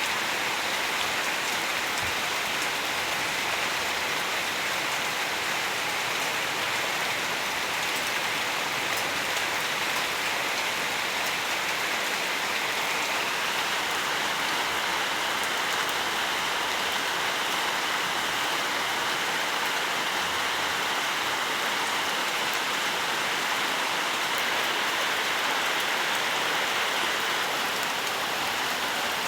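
Steady rainfall, a dense even patter of raindrops falling on surfaces, with no change in intensity.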